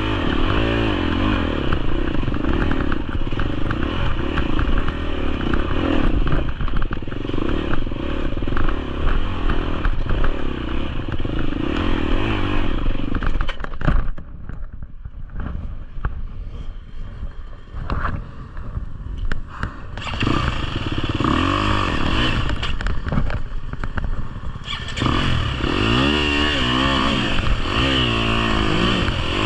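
GasGas EX250F dirt bike's 250cc four-stroke engine being ridden on a trail, its pitch rising and falling as the throttle is opened and closed, with many small knocks and clatters from the bike. The engine goes quieter about halfway through for several seconds, then comes back up to full load.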